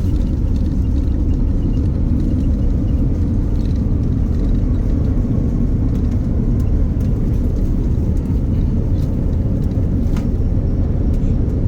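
Steady low rumble of an airliner heard from inside the cabin: engine and airflow noise.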